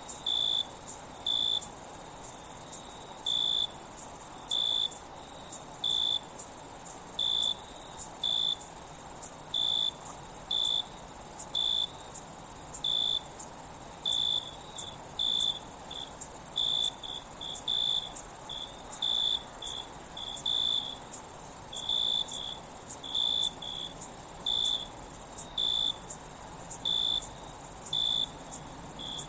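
Night insect chorus: a steady, high-pitched insect trill with a cricket chirping over it, roughly once a second and sometimes in quick pairs.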